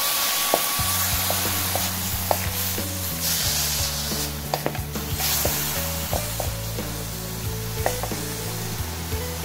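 Chicken pieces sizzling in hot oil in a metal wok, with garlic, onion and ginger, while being stirred with a wooden spatula. The chicken is being sautéed in the aromatics. Irregular knocks and scrapes come from the spatula against the pan.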